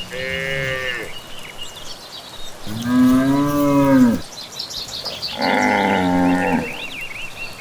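Cows mooing: three long, drawn-out moos a second or two apart, the middle one the loudest. Birds chirp faintly in the background.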